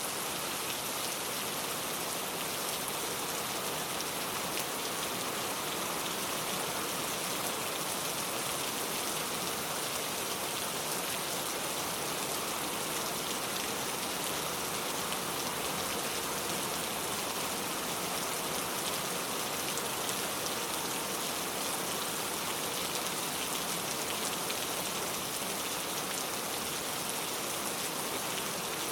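Rain falling steadily on a car, a constant patter of drops.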